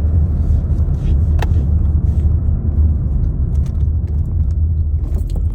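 Steady low rumble of a car heard from inside the cabin, with a faint click about one and a half seconds in.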